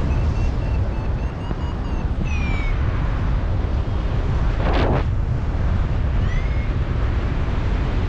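Strong, gusty wind buffeting the microphone with a loud, steady rumble. Faint high chirps come through now and then, and there is a brief louder rush of noise about halfway through.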